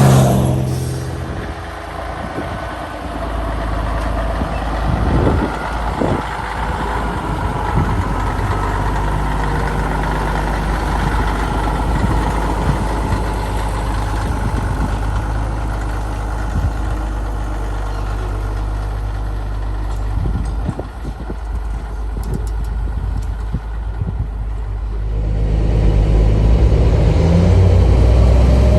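Heavy diesel truck engine running with a steady low rumble, growing louder near the end.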